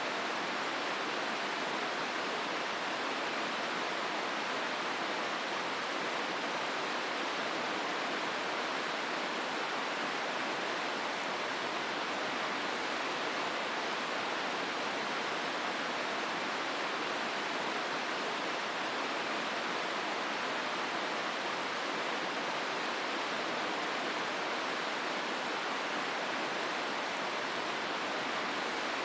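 River water rushing steadily through a rocky gorge, an even, unbroken noise with no separate events.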